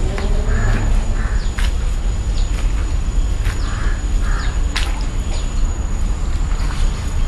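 Birds calling: several short, harsh, crow-like calls, often in pairs, with sharp thin chirps between them, over a steady low rumble.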